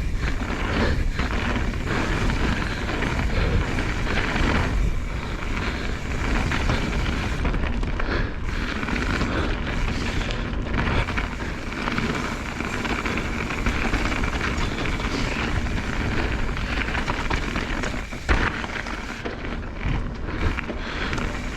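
Mountain bike riding down a dirt trail: wind rushing over the camera microphone with the rumble and rattle of the tyres and bike over the ground.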